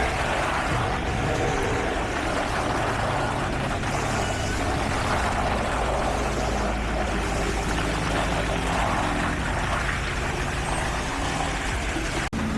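Heavy diesel construction machinery running steadily, a continuous engine drone with mechanical noise over it. The sound drops out for an instant near the end.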